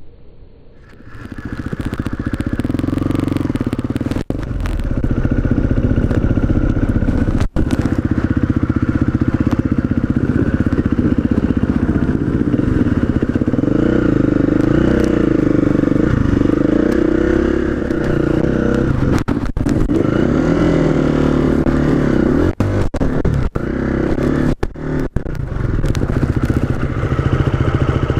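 KTM trail motorcycle's engine heard from its own handlebars, pulling up a steep rocky lane, the revs rising and falling with the throttle. It comes in about a second in and is broken by a few sudden brief gaps.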